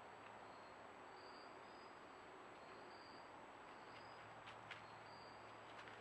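Faint crickets chirping, short high chirps repeating about once or twice a second over a steady hiss, with a couple of faint clicks near the end.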